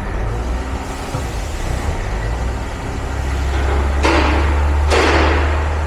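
Mercedes Sprinter 3.0 L OM642 V6 diesel engine running in a shop and being revved: a steady low drone that builds about halfway through, with two loud rushing blips of throttle near the end. The engine is more responsive now, though its power is still limited by a faulty mass air flow sensor.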